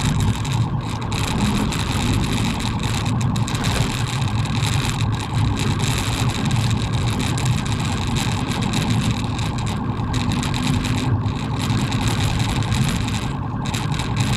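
Steady engine and road noise from a moving police car, heard from inside the vehicle.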